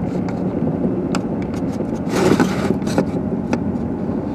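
Car engine and tyres running steadily on a snowy road, heard from inside the car, with a few short clicks and knocks.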